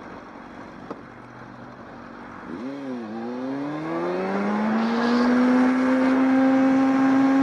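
Engine revving: two quick blips up and down, then a long climb in pitch that levels off and holds at high revs, growing louder.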